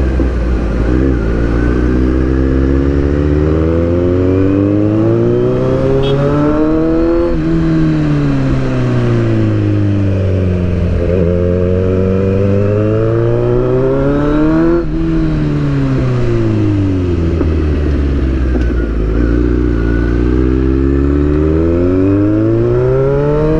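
Kawasaki inline-four motorcycle engine revving up under acceleration and dropping back as it slows, in long smooth sweeps: three climbs and two falls.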